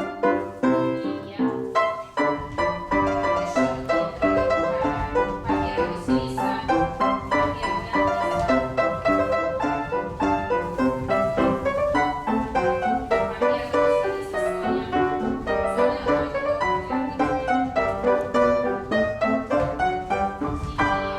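Piano music with a steady, even beat, the accompaniment for a ballet class's sauté jumps in first position.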